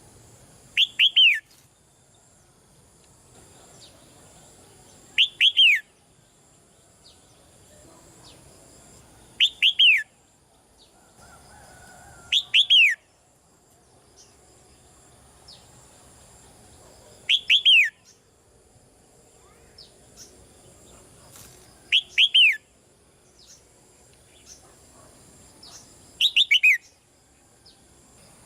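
Red-whiskered bulbul calling: seven short clusters of two or three quick falling notes, one about every four to five seconds.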